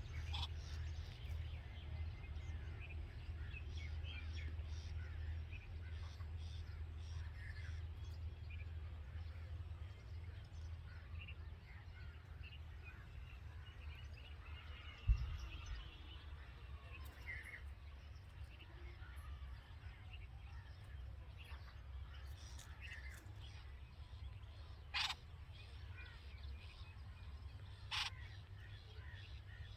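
Scattered faint bird chirps over a steady low rumble, with a single thump about halfway and two short, louder calls near the end.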